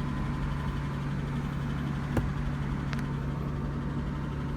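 2004 Ford F-150's engine idling steadily, started on a newly programmed key now accepted by the anti-theft system. Two sharp light clicks about two and three seconds in.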